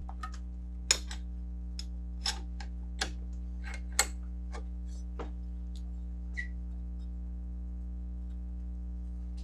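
Scattered sharp clicks and clinks of metal hand tools and parts being handled, about ten in the first six and a half seconds, over a steady electrical hum.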